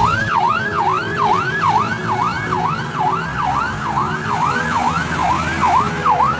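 Police car siren in a fast yelp, its pitch sweeping up and down about three times a second without a break.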